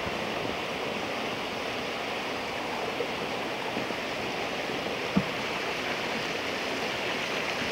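Steady rushing of the Nantahala River's whitewater, with a single short knock about five seconds in.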